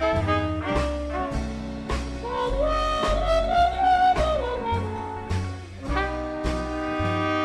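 Swing band playing: saxophones, trumpet and trombone over upright bass and drums. In the middle one horn note slides up and back down, and the full horn section comes in together near the end.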